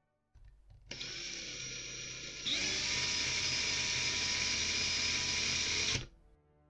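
Power drill running and drilling out a rivet on a diecast toy car. It steps up in loudness about two and a half seconds in as the bit bites, and stops suddenly about six seconds in.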